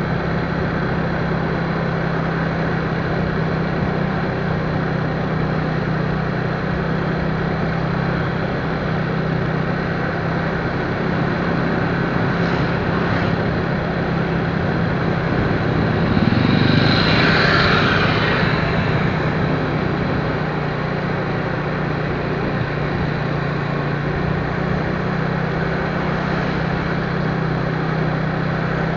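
A vehicle on the move: a steady low engine hum under road and wind noise. About two-thirds of the way through it swells louder for a few seconds, with a higher whine on top.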